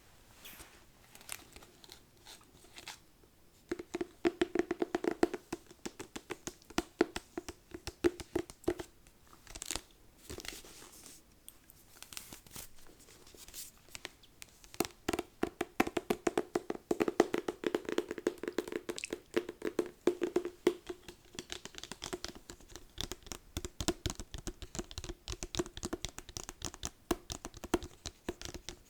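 Fingers tapping and scratching on a book in quick runs of sharp taps, with a low hollow ring from the cover during the denser stretches.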